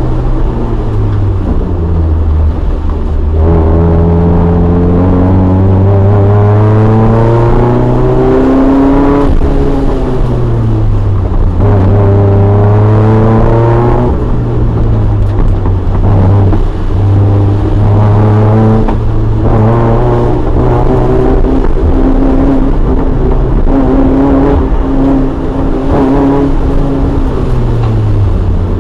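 Toyota AE86 Corolla's 4A-GE four-cylinder engine under hard driving, revving up and dropping back again and again as the car accelerates, lifts and shifts, the pitch climbing and falling every few seconds.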